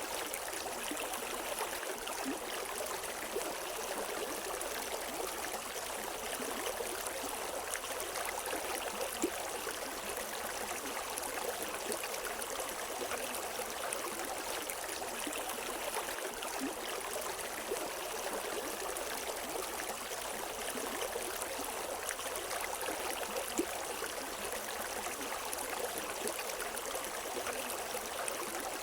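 River water flowing and babbling steadily over rocks, with small splashes; no birds.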